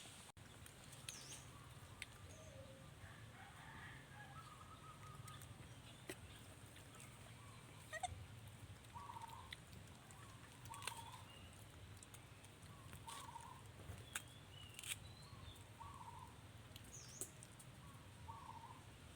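Faint animal calls: a run of short low calls repeating about once a second through the second half, with scattered sharp clicks and a couple of brief high chirps.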